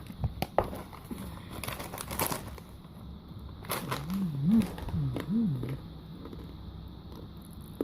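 Plastic snack packet crinkling with sharp crackles and clicks. Then a low voice-like sound that rises and falls three times, about four seconds in.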